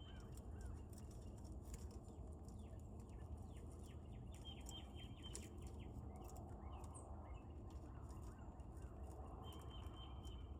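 Faint wild birds chirping at a feeder: short held call notes and a run of quick downslurred chips, over a steady low background rumble.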